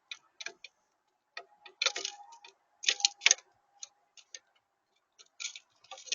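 Irregular sharp taps and clicks, in little clusters, typical of birds pecking seed at a feeder.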